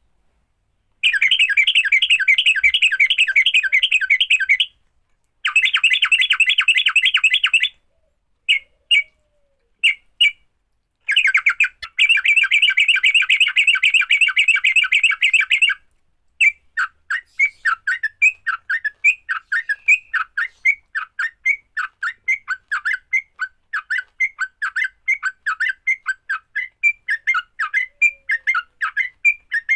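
Yellow-vented bulbul (trucukan) giving its aggressive fighting call: long bursts of fast, harsh chattering separated by short gaps. About halfway through it changes to a steady run of separate quick chirps, several a second.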